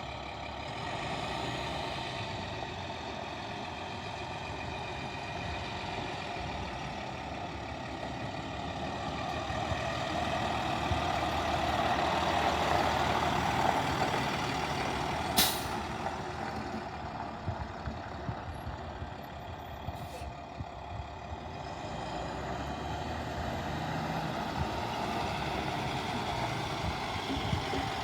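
The diesel engine of a 2011 International 4400 box truck running steadily, growing louder for a few seconds near the middle. About halfway through there is one short, sharp sound.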